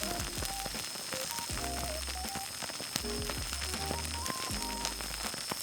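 Newly lit campfire kindling crackling and hissing with many small pops throughout, over soft background music with slow stepped notes.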